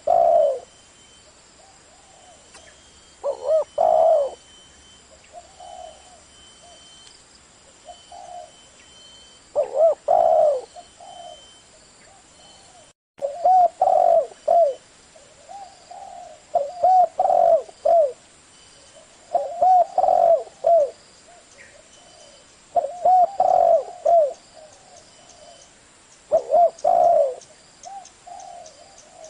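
Spotted dove cooing in the deep 'giọng thổ' voice, a call used to draw wild male doves: loud phrases of several coos come every few seconds, with softer single coos between them.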